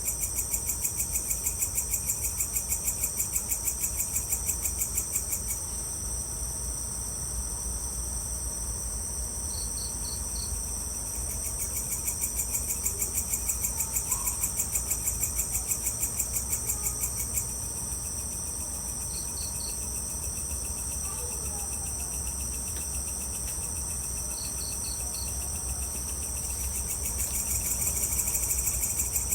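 Evening chorus of crickets and other insects: a steady shrill trill over a pulsing cricket call at about five pulses a second. The pulsing call stops and starts again twice, and short three-note chirps come a few times.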